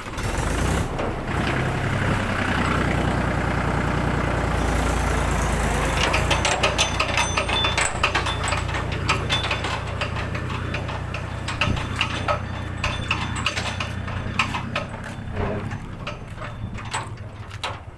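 Tractor engine running steadily under load while climbing a steep slope. From about six seconds in, a continuous clattering and rattling runs over it.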